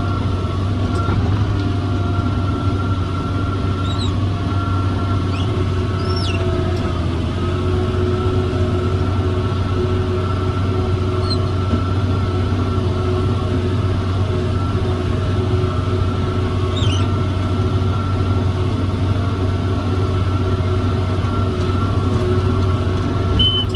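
John Deere 7410 tractor's six-cylinder diesel running steadily under load while pulling a round baler, a constant drone with a steady whine over it and a few faint high squeaks.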